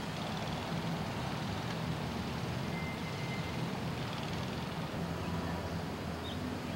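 Steady background noise, a low hum under an even hiss, with a faint short high tone about three seconds in and two tiny high blips near the end.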